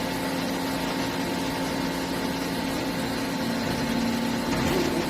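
HNK HB-130 CNC horizontal boring mill running under power: a steady machine hum with several steady tones, getting slightly louder about four seconds in.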